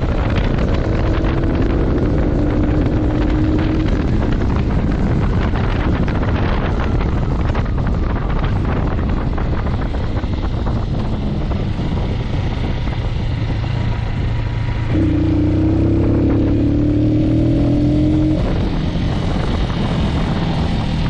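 Motorcycle engine running while riding, its note climbing as it accelerates near the start and again louder about two-thirds of the way through, over a steady rush of wind on the microphone.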